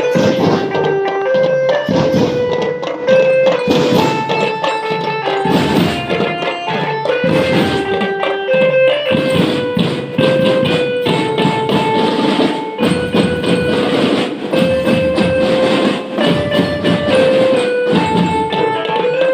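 Marching band playing a tune: sustained melody notes from wind instruments over steady drum beats.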